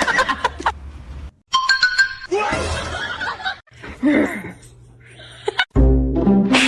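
Several short clips cut together: voices and laughter, a brief steady electronic chime-like tone, then music with a deep bass starting near the end.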